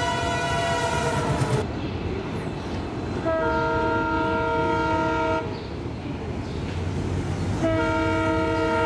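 Indian Railways passenger coaches rolling past with a steady rumble, while a train horn sounds three times. The first blast dips in pitch and trails off about a second and a half in. A second blast lasts about two seconds in the middle, and a third starts near the end.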